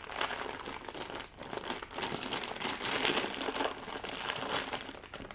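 Crinkly packaging of a Funko mystery mini being handled and torn open, an uneven crackling and rustling throughout.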